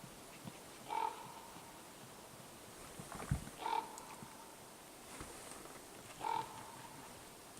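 An animal call repeated three times, short and evenly spaced about two and a half seconds apart, with a dull thump between the first two calls.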